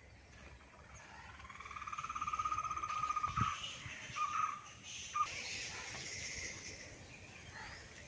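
A bird giving one long, rapid trill of about two seconds, followed by a few short notes at the same pitch, with faint high chirping in the background.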